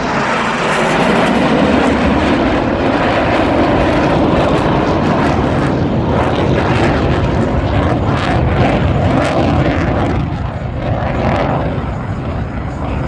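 Loud roar of several Blue Angels F/A-18 Super Hornet jets passing low, with a crackling edge in the middle, easing off about ten seconds in.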